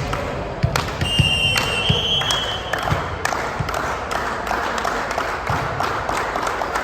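Volleyball play in a sports hall: scattered sharp thuds of the ball being hit and landing, then clapping and cheering from players and onlookers building from about three seconds in.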